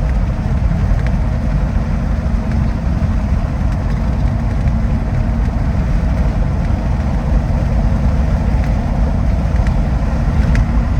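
Jeep Wrangler cabin noise while driving: a steady, loud low drone of engine and tyres on the road. The oversized tyres are what make the ride noisy.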